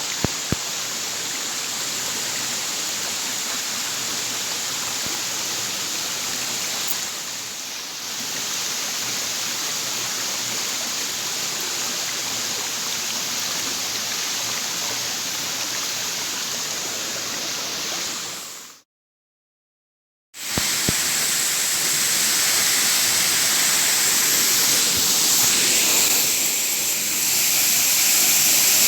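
Waterfall: a steady rush of falling water. About two-thirds of the way through it drops out to silence for about a second and a half, then comes back a little louder.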